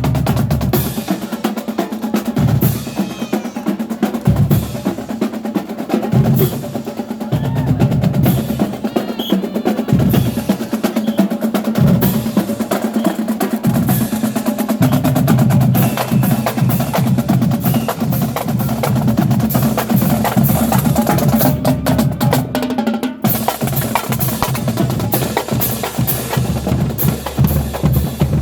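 Marching band drumline playing: fast snare strokes and rolls over bass drums, with a brief break about three quarters of the way through.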